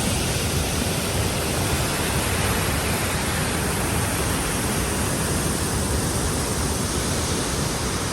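Steady, even rush of Nugget Falls, a waterfall crashing down.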